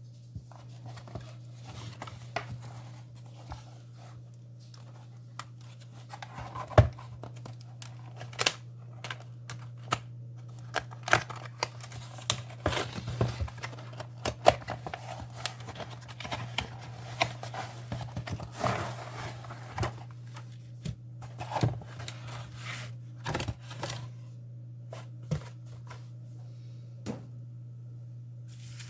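Hands handling packaging and materials on a table: plastic and paper crinkling and tearing, with many short clicks and knocks, one sharp knock about seven seconds in. A steady low hum runs underneath.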